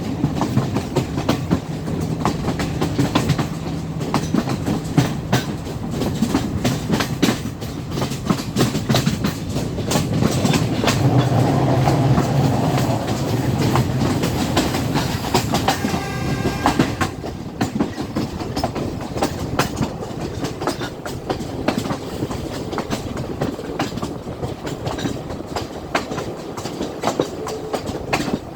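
Sri Lanka Railways Class S14 diesel multiple unit running at speed, its wheels clicking over the rail joints in a steady irregular clatter over a continuous rumble.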